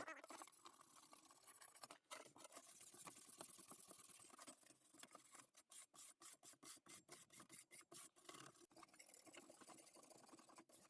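Faint scratching of a wire brush scrubbing surface crud off a sheet-metal speaker housing, with quick back-and-forth strokes, about four a second, in the middle.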